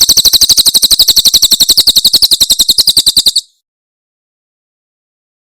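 Cililin bird's 'tembakan' song burst: a rapid, even run of sharp high notes, roughly a dozen a second, that stops abruptly about three and a half seconds in.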